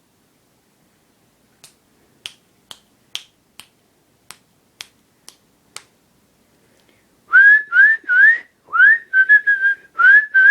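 Fingers snapping about ten times, roughly twice a second, then a run of about eight loud, short whistled notes, each sliding upward, as if calling to a bird.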